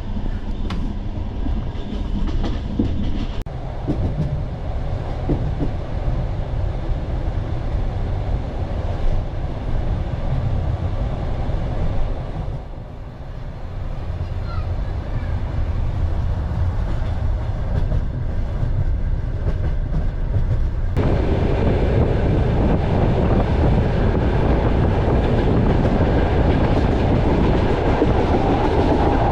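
Passenger train running on the rails, heard from aboard: a steady rumble of wheels on track. It dips briefly about halfway through, then about two-thirds of the way in turns abruptly into a louder, fuller rush that holds to the end.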